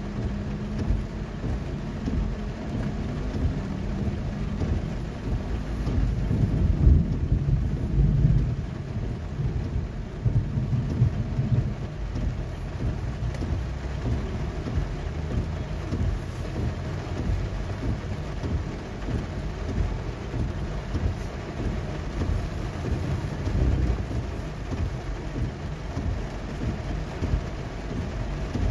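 Heavy rain on a car's roof and windshield, heard from inside the car: a steady hiss of rain with a deep low rumble underneath that swells about seven seconds in.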